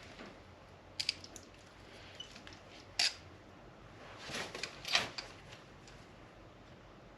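A few light clicks and taps, spaced irregularly, with a small cluster of them near the end.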